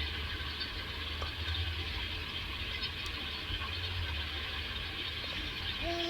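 Tomatoes and onions cooking in oil in a sufuria: a faint, steady sizzling hiss over a low steady rumble, with a couple of soft clicks.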